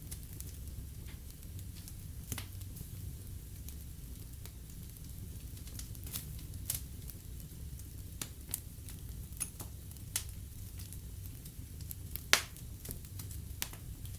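Fire in a fireplace crackling: scattered sharp pops over a steady low rumble, with one louder pop near the end.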